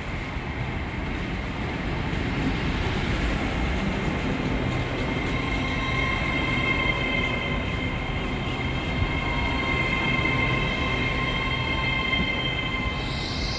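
TransPennine Express Class 802 train rolling into the platform and slowing, a steady rumble from its wheels on the rails. A thin, steady high squeal builds through the second half as it slows, and a hiss starts right at the end.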